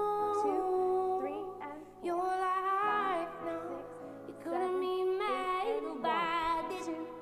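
Song playing: a woman singing long held notes with vibrato over a sustained keyboard backing, in three phrases with short breaths between them.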